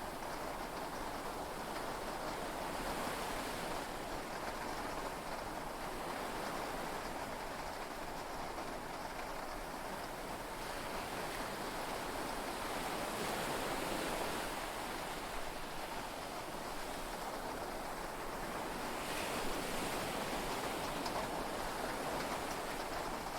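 Heavy rain and sea waves heard from inside a yacht cabin: a steady wash of noise that swells slightly a few times.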